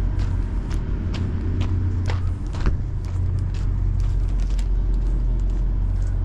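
A steady, low engine rumble with a constant pitch, with light clicks scattered through it.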